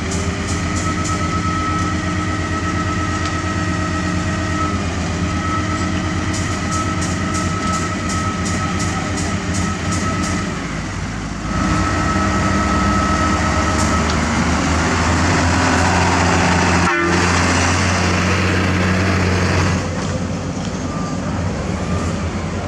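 Heavy diesel machinery running steadily, a low engine hum carrying a high, steady whine. It grows louder for several seconds about halfway through, then drops back near the end.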